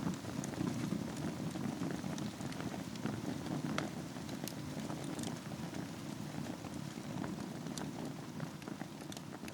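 Wood fire burning in a fireplace over a bed of embers: a steady low rush from the flames, with scattered sharp crackles and pops.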